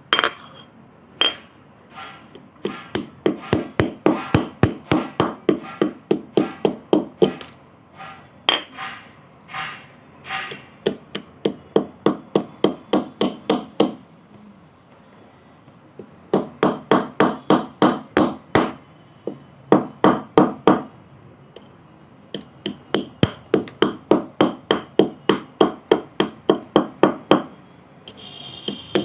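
Kolkata clay pot being broken: quick runs of sharp knocks, about five a second, each run lasting a few seconds with short pauses between.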